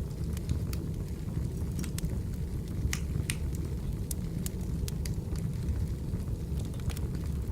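Burning firewood crackling, with sharp irregular pops and snaps over the steady low rumble of the flames.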